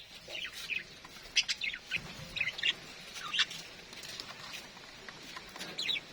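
Budgerigars chirping: short, high, scattered chirps, a handful over a few seconds.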